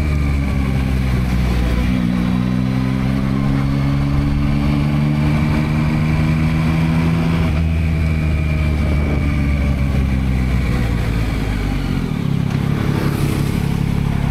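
2022 Yamaha MT-09's 890 cc inline-three engine with stock exhaust, running under way. The revs climb gradually for several seconds, break briefly about halfway through, then drop off near the end.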